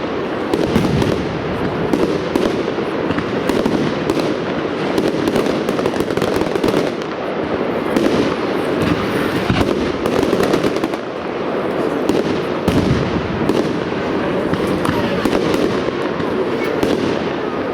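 Fireworks display: a dense, continuous barrage of firework bursts and reports in quick succession, with no pause.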